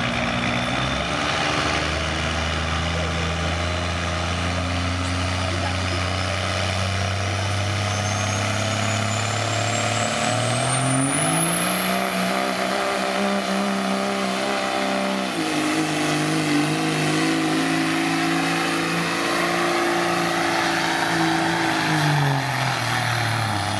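A pulling vehicle's diesel engine running hard through a pull. Its pitch steps up about ten seconds in, dips around fifteen seconds, and falls away near the end as the run finishes. A thin high whistle, typical of a turbocharger spooling, climbs over the first half and then holds.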